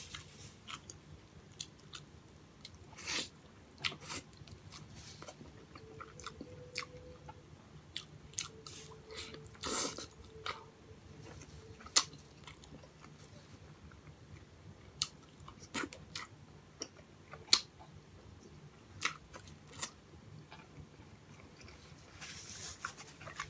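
Close-miked mukbang chewing of a porkchop silog meal (crispy fried pork chop, garlic rice and fried egg): wet mouth clicks and smacks with occasional crunchy bites at irregular intervals.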